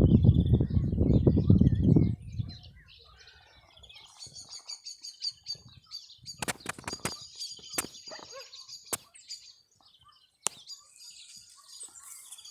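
A loud low rumble for the first two seconds, then small birds chirping in quick runs of repeated high notes, with a few sharp clicks between them.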